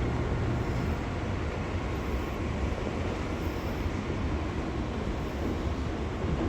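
Fujikyu 6000 series electric train running, with a steady rumble of wheels on the rails.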